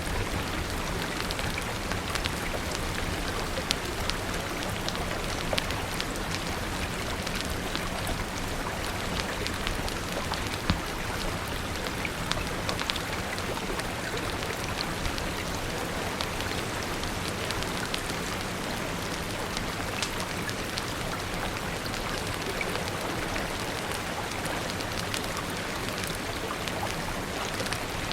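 Steady rain hissing, with a wood fire crackling through it in scattered sharp pops and clicks.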